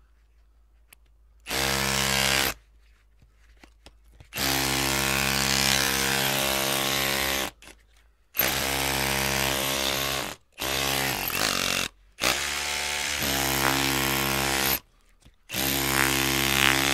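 Electric drill motor running in six bursts of about one to three seconds each, with short near-silent pauses between trigger pulls. The pitch holds steady within each burst except one near the middle, where it wavers.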